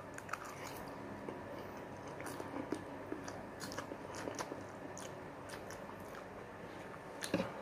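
Close mouth sounds of someone chewing a mouthful of instant noodles mixed with mini marshmallows: soft, irregular smacks and clicks. A brief louder sound comes near the end.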